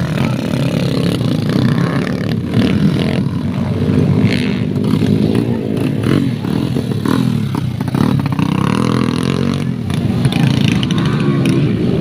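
Dirt bike engines running and revving, their pitch rising and falling throughout.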